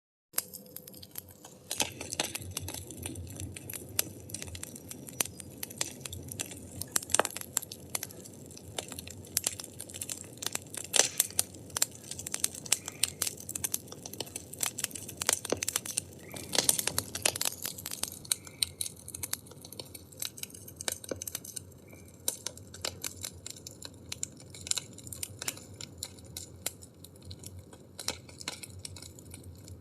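Firewood burning, crackling and popping irregularly over a steady low rumble of flames; the pops grow sparser in the last third.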